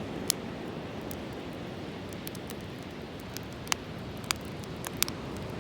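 Wood fire crackling: a handful of sharp pops at irregular intervals over a steady low rush.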